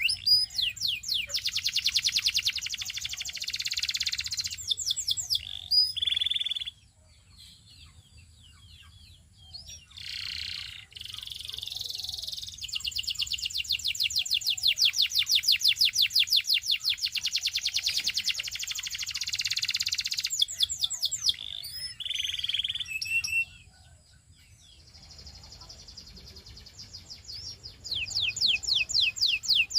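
Canary singing: long, rapid trills of quickly repeated high notes, with brief pauses of a few seconds near the middle and again near the end.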